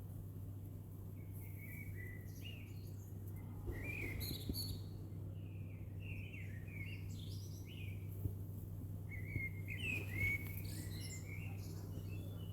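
Songbirds singing in short, varied chirping phrases with gaps between them, over a steady low hum.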